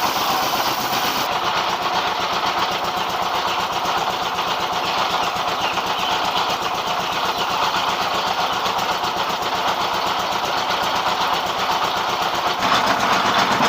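Rice milling machine driven by a 24 hp dompeng single-cylinder diesel engine, running steadily under load. The sound shifts slightly about a second in and again near the end.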